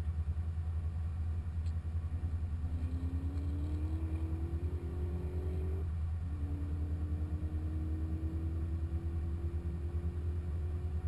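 Supercharged 6.2-litre V8 of a 2015 Corvette Z06 pulling under load over a heavy low rumble, its pitch climbing slowly, dropping sharply at an upshift about six seconds in, then climbing again.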